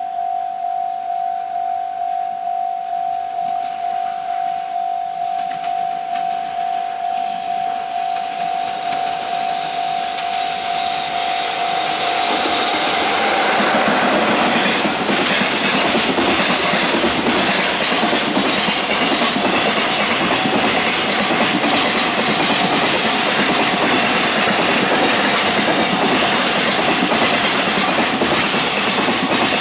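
A level-crossing warning bell rings steadily at about two strokes a second. A container freight train hauled by the electric locomotive EF66-104 arrives about 12 seconds in and drowns it out. The wagons then roll past loudly, their wheels clattering in a steady rhythm over the rail joints.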